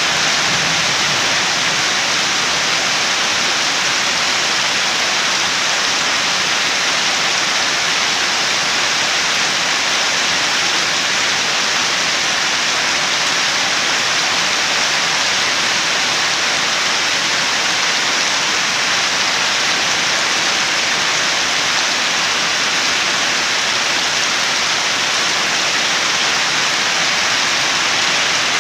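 Steady, even rain with no breaks or distinct drops.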